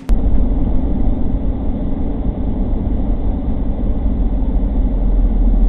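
Steady low rumble of a vehicle's engine and road noise while driving, starting abruptly about a tenth of a second in.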